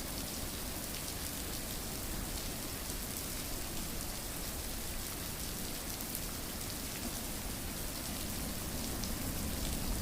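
Steady rain falling and pattering on a surface, an even hiss with fine drop ticks, used as sleep white noise.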